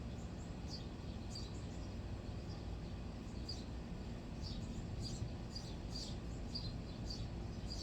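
A small bird giving short, high chirps at irregular intervals, coming more often in the second half, over a steady low rumble.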